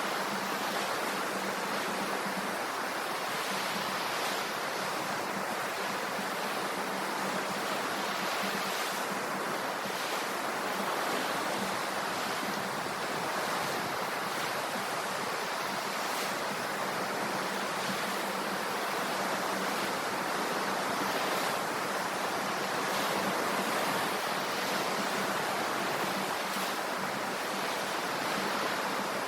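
Ocean surf washing on the shore in a steady, unbroken rush.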